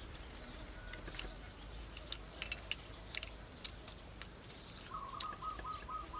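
Birds chirping, with scattered short, light clicks and ticks. About five seconds in, a bird starts a fast trill of short repeated notes.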